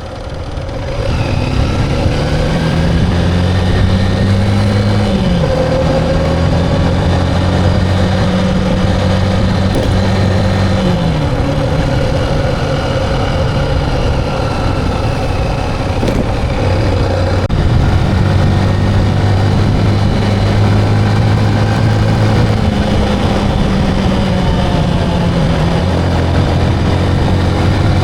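Motorcycle engine running under way, a steady hum whose pitch drops twice in the first half and rises again about two-thirds of the way in as the speed changes.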